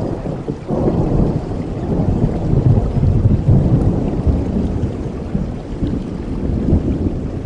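A long roll of thunder over steady rain: the low rumble swells about a second in, peaks around the middle and slowly fades.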